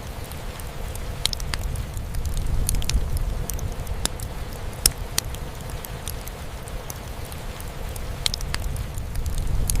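Wood fire in a fireplace crackling, with scattered sharp pops, the loudest a little before the middle, over steady rain drumming on a roof.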